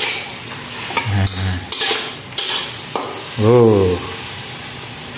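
Diced chicken sizzling as it stir-fries in a wok, a spatula stirring and scraping across the pan. A short low voice sound comes about a second in, and a louder one, rising then falling in pitch, at about three and a half seconds.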